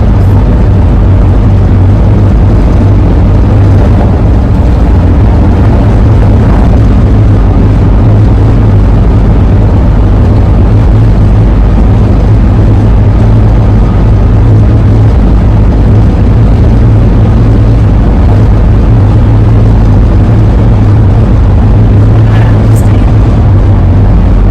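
Steady road and wind noise with a strong low drone inside the cabin of a 2001 Ford E-350 camper van on the move.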